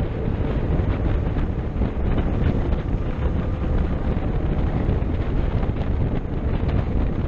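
Steady rush of wind buffeting the microphone on a moving motorcycle, with the bike's running noise blended in underneath.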